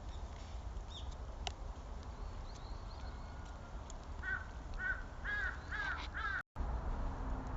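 A crow cawing, a run of about five caws roughly half a second apart that grow louder, over a steady low outdoor rumble with a few faint high bird chirps. The sound drops out for an instant near the end.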